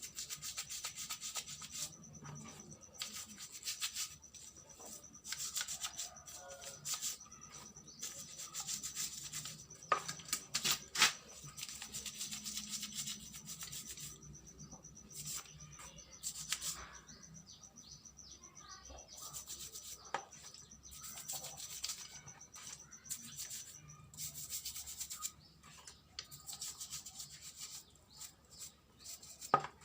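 A brush scrubbing small carburettor parts in quick, irregular rubbing strokes, with a few sharp knocks along the way.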